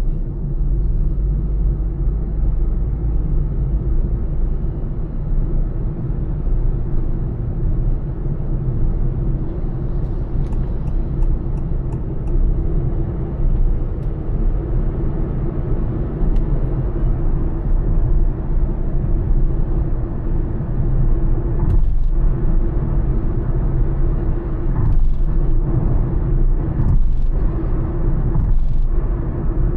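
Honda Elevate cruising at highway speed: a steady low rumble of engine and tyre noise. Near the end there are a few short knocks, about four over seven seconds.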